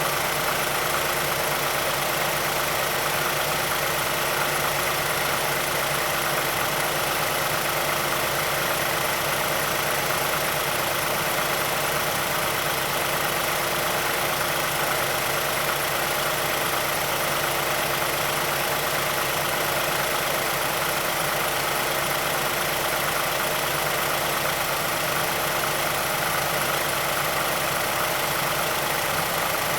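The 2006 Mazdaspeed6's 2.3 L turbocharged direct-injection four-cylinder idling steadily after a cold start. This engine is suspected of the VVT actuator ticking and timing chain rattle covered by Mazda's SSP-87.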